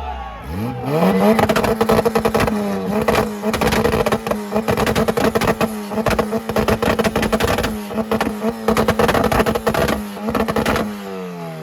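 A car engine revs up quickly and is held at one fixed rpm for about ten seconds with rapid crackling pops, as when bouncing on a rev limiter. The revs then drop away near the end.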